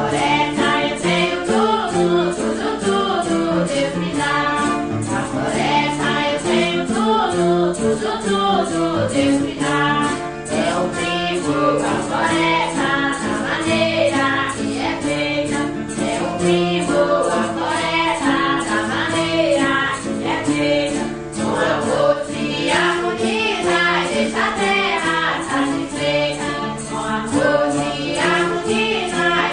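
Santo Daime hymn sung in unison by a group of voices, women's voices prominent, over a steady shaken percussion beat.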